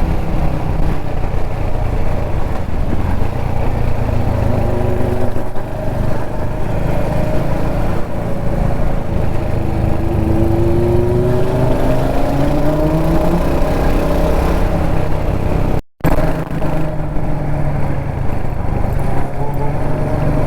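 Kawasaki Z900's inline-four engine and exhaust running while riding, with the engine pitch climbing about halfway through as it pulls. The sound cuts out for an instant about three-quarters of the way in.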